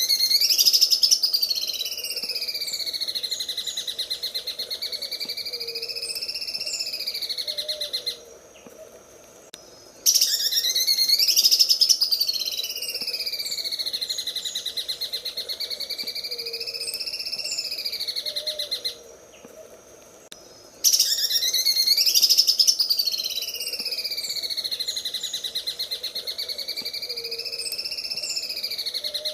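Green leafbird (cucak ijo) singing its 'sewing machine' song: a very fast, machine-like rattling trill that swoops up and down in pitch. The phrase lasts about eight seconds and comes three times with short pauses between.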